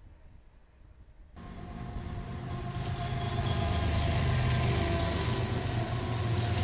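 Several BNSF diesel locomotives passing close by at speed, with a deep engine rumble and rail noise. The sound starts suddenly about a second and a half in and builds in loudness.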